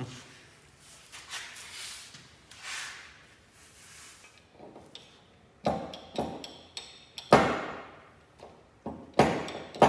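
Metal transmission parts knocking and clanking as the clutch pack is worked out of the case. A few seconds of soft scraping come first, then several sharp clanks with a short ring. The two loudest are about seven and nine seconds in.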